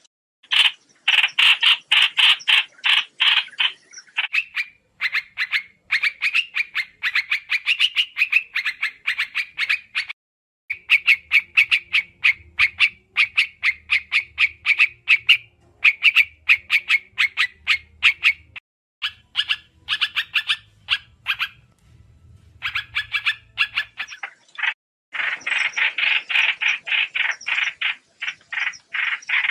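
Trao trảo bird lure recording: loud, rapid runs of sharp chirping calls, several a second, in bursts of a few seconds separated by brief pauses.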